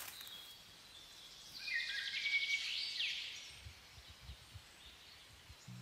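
Songbirds singing, with a phrase of rapid chirps and trills about two seconds in that ends in a quick falling note, over a faint outdoor hiss.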